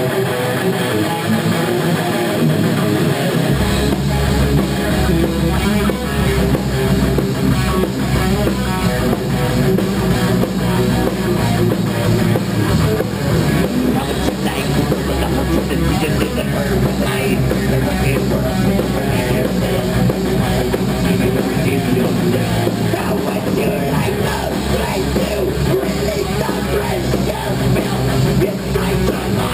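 Live rock band music with electric guitar; a heavy bass end comes in about three and a half seconds in and the full band plays on loud and steady.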